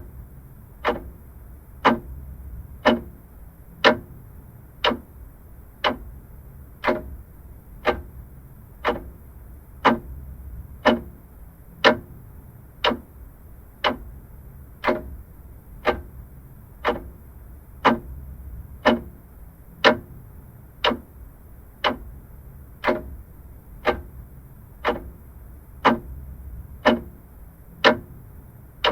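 Vintage clock ticking steadily, about one sharp tick a second.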